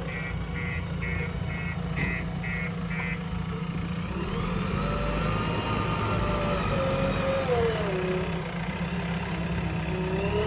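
Heavy diesel engine running steadily, with a reversing alarm beeping about twice a second for the first three seconds. After that the engine's pitch slowly rises and falls as the machine works.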